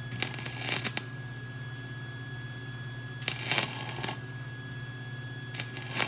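Short bursts of welding-arc crackle from a Lincoln welder, three in a row about every two and a half seconds, over a steady hum. The welder is filling a hole in thin minibike frame tubing that keeps burning through, because the machine is still turned up for heavier pipe welding.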